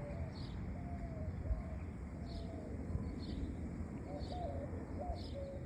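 A bird calling in short, repeated pitched notes about twice a second, with fainter high chirps among them, over a low steady rumble.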